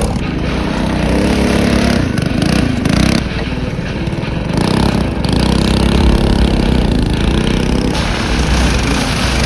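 Small mini bike engine running hard, its revs rising and falling over the seconds, with a loud rushing noise throughout.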